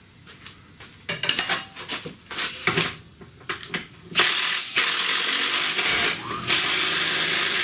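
Ratcheting clicks as the control arm bolt is run in. About four seconds in a cordless power tool runs in short bursts, and a shop air compressor kicks on and keeps running steadily.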